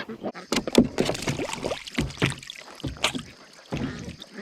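Irregular water splashing and sloshing, with ducks quacking briefly among the splashes.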